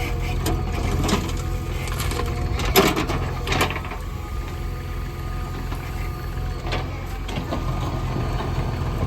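Diesel engine of a JCB 3DX backhoe loader running steadily, with a few metallic clanks and rattles, loudest about three seconds in.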